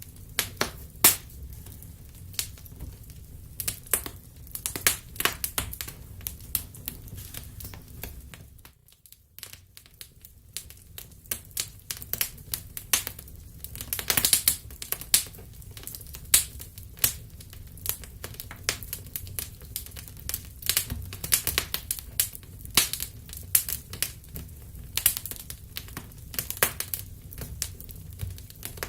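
Wood fire crackling, with irregular sharp pops and snaps over a low steady rumble; it briefly dips almost to silence about nine seconds in.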